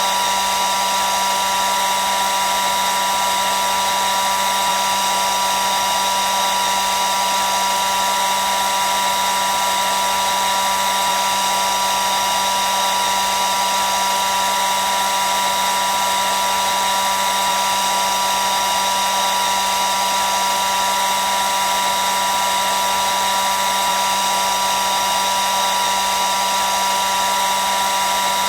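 Hair dryer running steadily: an even rush of blown air with a high motor whine and a lower hum, unchanging.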